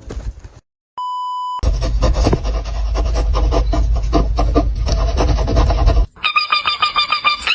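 A short steady electronic beep, then about four seconds of loud rasping noise, then a fast run of repeated high squawking calls from a parrot near the end.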